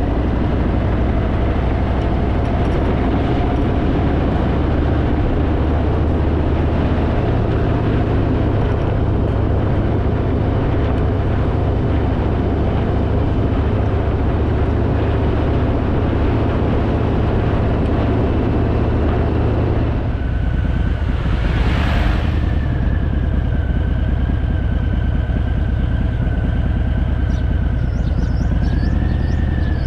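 Harley-Davidson V-twin engine running under way, with steady wind and road noise. About twenty seconds in the rush eases and a steady high whine comes in, with a brief swell of rushing noise soon after.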